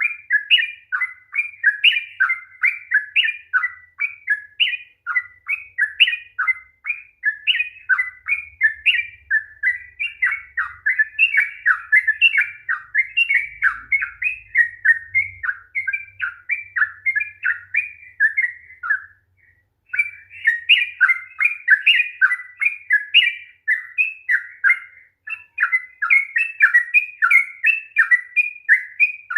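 Yellow-vented bulbul (trucukan) singing a long, rapid run of bubbly notes with hardly a break; one short pause comes about two-thirds of the way through.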